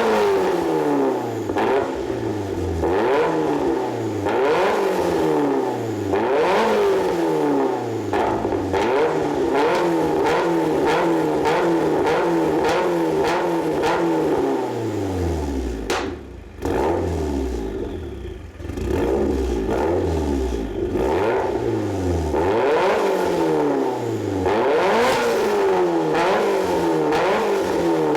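Nissan S13's exhaust through an EXAS F1 aftermarket muffler, the engine free-revved over and over, each blip rising and falling about every one and a half seconds. For a few seconds past the middle it drops back to a low idle before the revving picks up again.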